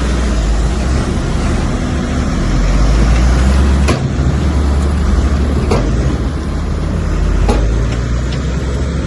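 Heavy diesel earthmoving machinery running with a deep, steady rumble. Three sharp metallic clanks sound about two seconds apart over it.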